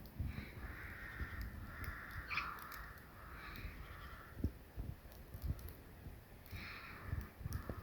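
Bird calls in a winter forest: a run of repeated calls in the first half and more near the end, over scattered low thuds.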